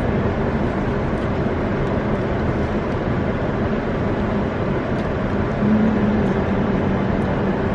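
Steady rumble of a car's idling engine and ventilation heard inside the cabin, with a faint low hum running through it.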